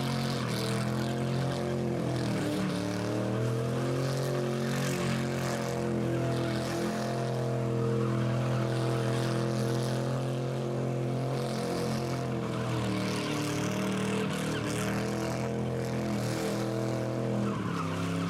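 Rat rod engine held at steady high revs during a burnout, with the hiss of spinning tires over it; the revs sag briefly a few times and it cuts off suddenly at the end.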